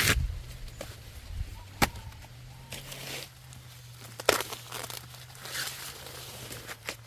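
Rustling and tearing of corn leaves and husks, broken by three sharp snaps, about two seconds apart, as corn is picked. A steady low hum runs underneath.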